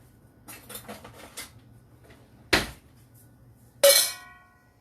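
Kitchen utensils rattling and scraping, then a sharp knock, then a loud metallic clang of kitchenware that rings on briefly.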